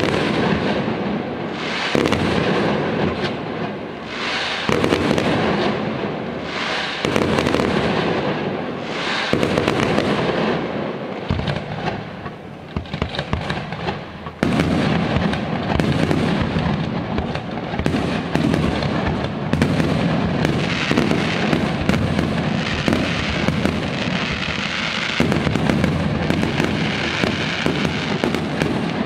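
Fireworks display: a dense, continuous barrage of bangs and crackling from bursting aerial shells. It eases off about twelve seconds in, then comes back heavier from about fourteen seconds.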